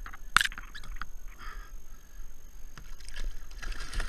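Sounds of handling on a fishing kayak while a cobia is landed: a sharp knock or splash about a third of a second in, then water splashing and sloshing against the hull, louder near the end.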